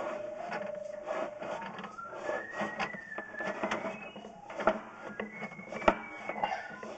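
Pipe locator receiver tracking a sewer camera's sonde: its tone shifts up and down in pitch in steps as the signal strength changes, over a run of clicks, with two sharper knocks about two-thirds of the way through.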